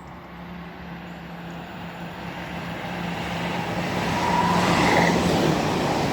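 A pair of coupled Great Western Railway Intercity Express Trains approaching at speed under electric power. The rushing noise grows steadily louder over about five seconds, with a steady low hum beneath.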